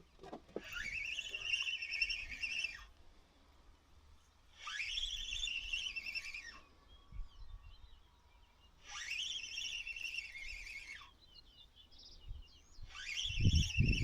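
A songbird singing the same high, trilled phrase four times, each about two seconds long and about four seconds apart, with fainter chirps from another bird in between. A low rumble comes in near the end.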